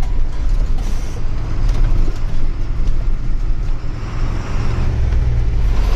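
Unladen truck driving on a rough unpaved road, heard from inside the cab: a steady low engine drone with frequent rattles and knocks as the empty truck bounces.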